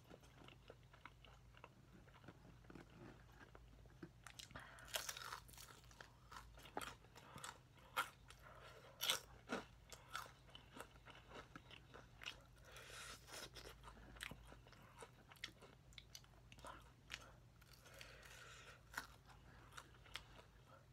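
Close-up chewing and crunching of crispy honey-glazed fried chicken: irregular wet crunches and mouth clicks, the loudest about 5, 8 and 9 seconds in.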